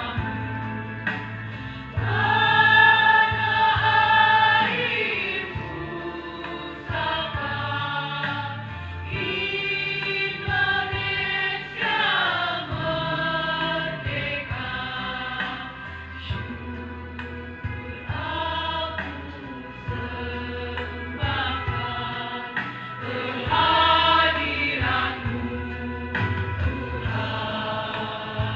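Choir singing a song, with sustained sung notes over a steady low instrumental accompaniment.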